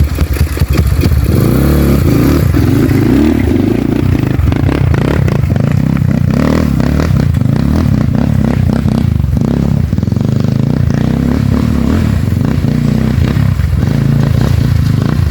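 Dirt bike engine running loud, its pitch rising and falling as the throttle is worked, with clattering and scraping over it.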